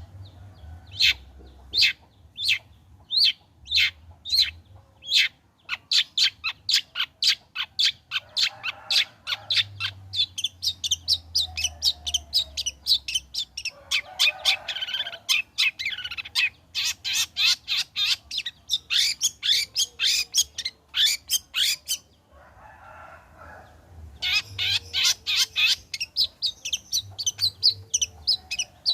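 Long-tailed shrike (cendet) singing vigorously: sharp repeated calls, a few a second at first and then in quick rapid-fire trains, broken twice by short, lower warbling passages.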